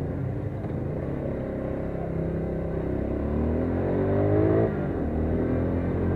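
AKT CR5 180 motorcycle's single-cylinder four-stroke engine pulling hard up a steep hill, its pitch climbing steadily. About four and a half seconds in, the pitch and level drop suddenly as the rider shifts up a gear, and the engine starts to climb again.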